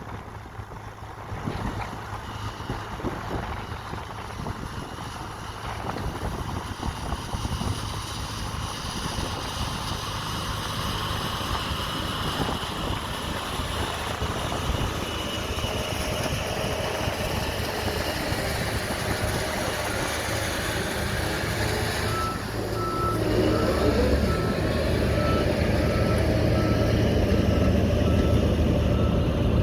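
Heavy diesel construction vehicle engine running, growing steadily louder as it comes closer. About three-quarters of the way through, its reversing alarm starts, beeping steadily at about two beeps a second.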